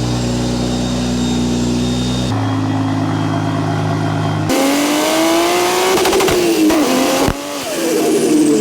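BMW 335i's N54 twin-turbo straight-six running after new coil pack boots were fitted to cure its misfire under load. It idles steadily, then from about four and a half seconds in its pitch climbs and falls back as it revs or pulls, with a sudden break near seven seconds before it climbs again.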